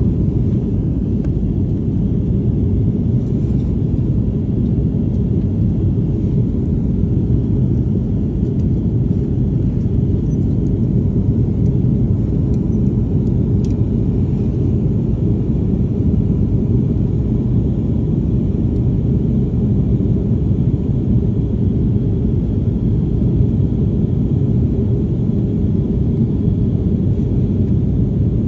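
Steady low rumble of an airliner's engines and rushing air heard from inside the passenger cabin in flight, even and unchanging throughout.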